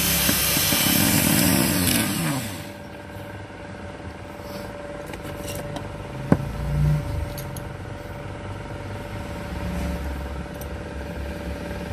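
Small electric drill running at high speed on a Zippo lighter's lid hinge, then spinning down about two seconds in as its pitch falls. Afterwards, quieter handling of the lighter with one sharp click near the middle.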